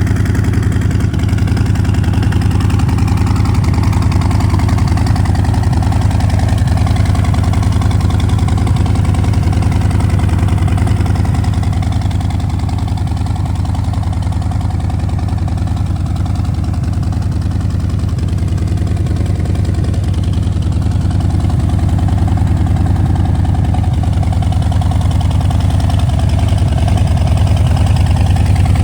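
Harley-Davidson Low Rider S Milwaukee-Eight 1868 V-twin idling steadily through a Vance & Hines aftermarket exhaust, with a deep, even note.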